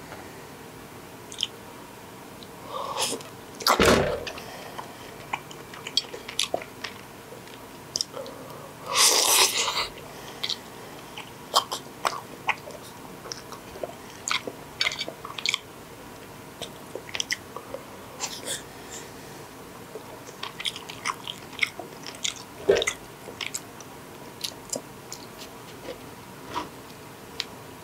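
Close-up chewing and mouth sounds of someone eating cooked shark meat, with many small scattered clicks of metal chopsticks against the dishes. Two louder, longer noises stand out, about four and nine seconds in.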